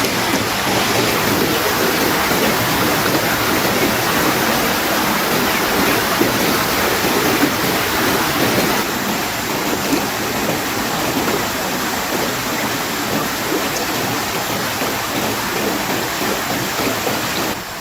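Steady rushing water noise, dense and even throughout, dropping slightly in level near the end.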